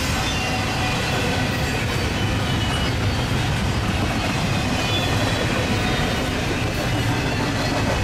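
Double-stack intermodal container train passing at speed: a steady, unbroken noise of steel wheels running on the rails as the loaded well cars go by.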